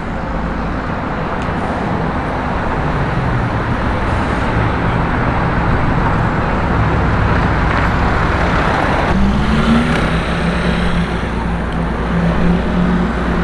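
City street traffic with a car engine close by. About nine seconds in, the engine note rises as the car pulls away.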